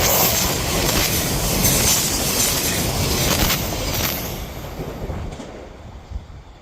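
Odakyu Line electric commuter train running past, its wheels clacking over the rail joints; the sound fades away after about four seconds as it recedes.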